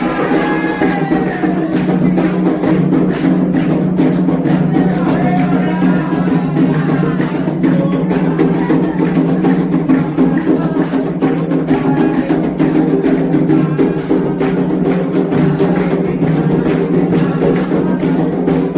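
Candomblé ritual music: atabaque hand drums and a struck bell or wood-block-like percussion keeping a steady, dense rhythm, with voices singing over it.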